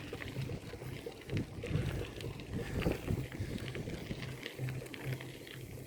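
Wind rumbling on the microphone while cycling, with scattered faint clicks and rattles.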